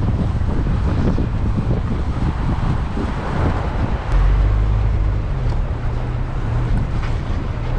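GMC Canyon pickup driving over soft sand in four-wheel drive: a continuous rumble of engine, tyres and suspension, with wind buffeting the microphone. About four seconds in, a steady low engine drone comes up louder and holds.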